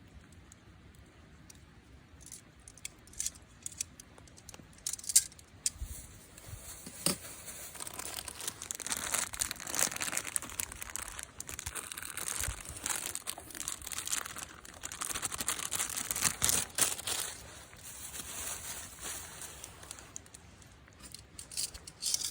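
Crinkling and rustling of something being handled, with scattered sharp clicks at first, busiest from about eight seconds in until shortly before the end.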